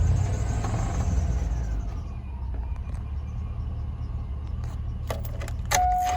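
6.0 L LQ4 V8 engine coming down from a rev and settling into a steady idle. Near the end come a few sharp clicks and a short steady beep.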